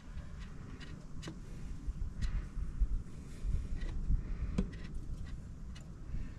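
Scattered light metallic clicks and taps of a screwdriver and hand tools at work on a tractor's diesel injection pump, turning up the fuel adjustment screw, over a low steady rumble.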